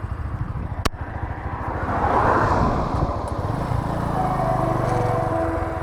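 Bajaj Boxer single-cylinder motorcycle engine running with a pulsing exhaust beat and wind noise that grows louder about two seconds in, and a sharp click just under a second in. Steady musical tones start to come in about four seconds in.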